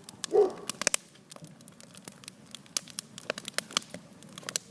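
Wood campfire crackling, with irregular sharp pops and snaps. A brief murmur of voice about half a second in.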